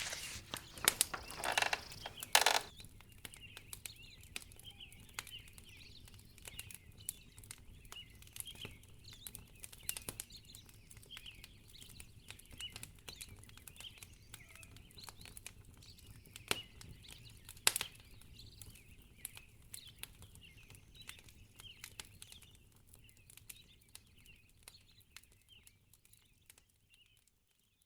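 Wood fire in a fireplace crackling, with irregular sharp pops over a low hiss and a louder rustling flare in the first couple of seconds. The sound fades out near the end.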